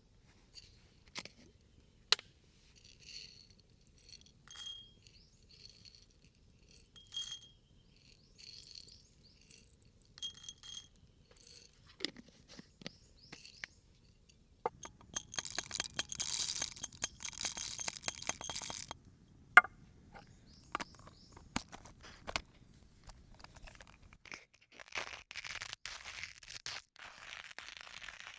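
Campfire steak cooking: scattered light clinks and taps of cookware with short ringing notes, then a few seconds of dense crackling about halfway through, one sharp loud knock, and a steady hiss toward the end.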